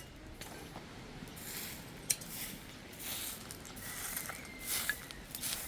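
Hand shears snipping through sheep's wool: short, irregular rasping cuts, about one a second, with one sharp click about two seconds in.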